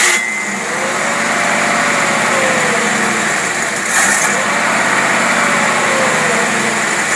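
Engine running steadily on a Holley marine carburetor under test, just after starting, with a brief hiss about four seconds in.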